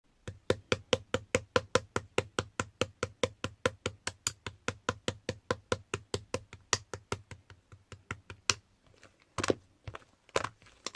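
A fork tapping rapidly into slime, about five sharp clicks a second, fading out about eight and a half seconds in; then a few louder, longer squishes of the slime near the end.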